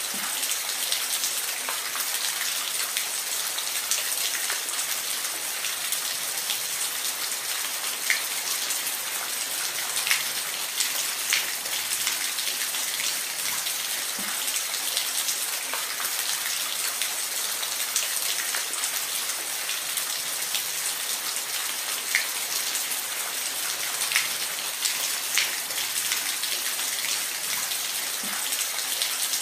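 Steady rain falling, a hiss of many drops with scattered louder individual drops ticking on a surface.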